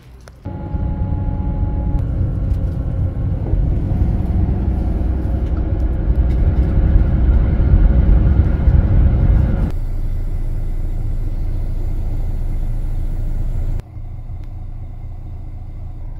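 Intercity coach on the road: a loud, steady low rumble of engine and road noise with a few faint steady tones over it. The rumble changes abruptly about ten seconds in and drops again near fourteen seconds.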